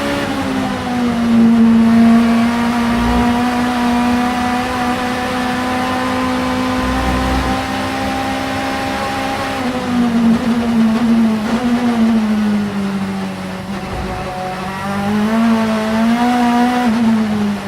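Vauxhall Vectra Super Touring race car's 2.0-litre engine at racing revs, held high and steady for several seconds. About ten seconds in the revs fall away, dip, climb again, then drop near the end.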